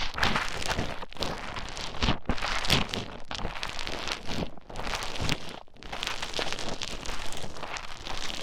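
Play Foam being squished and mixed with an ear pick close against an ear microphone. It makes a continuous crackling, broken by a few brief pauses.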